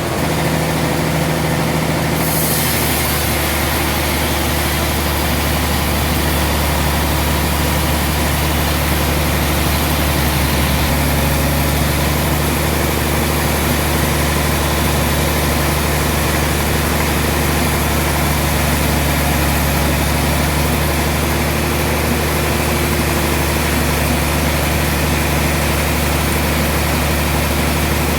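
Sawmill machinery running steadily with a low hum and a constant hiss. The hiss grows brighter a couple of seconds in.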